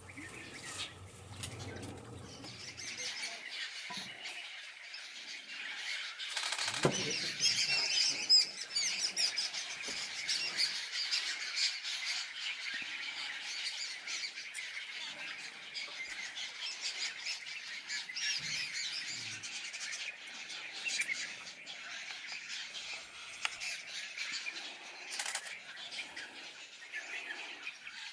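Many birds chirping and calling at once, a continuous dense chorus of small high calls, with one brief knock about seven seconds in.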